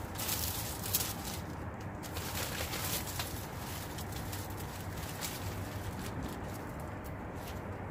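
Handling noise as items are sorted out of storage bags: scattered rustles, crackles and light knocks, busiest in the first three seconds.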